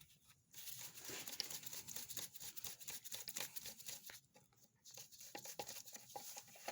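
Hands fitting a rubber intake hose and tightening its clamp by hand: irregular rustling and small clicks, pausing briefly a little over four seconds in.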